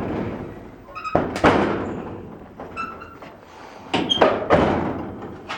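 A gate being opened: a series of heavy thuds and knocks, two loud clusters about a second in and about four seconds in, some followed by a brief ringing.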